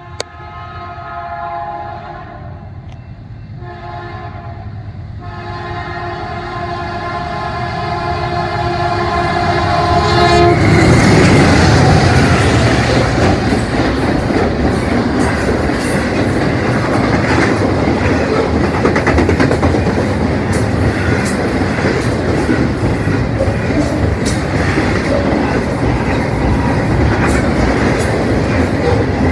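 Freight locomotive's multi-note air horn sounding for a grade crossing: a long blast, a shorter one, then a long blast of about five seconds, getting louder as the train nears. About ten seconds in the horn stops and a double-stack container train passes close by, a loud steady rumble of wheels with rapid clicking over the rail joints.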